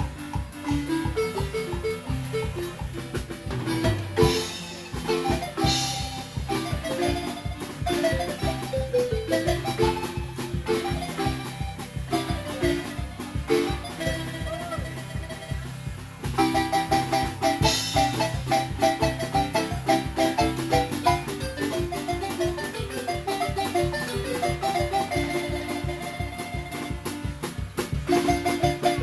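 A marimba ensemble playing a lively tune, its melody struck in fast repeated mallet strokes over a steady, evenly pulsing bass beat.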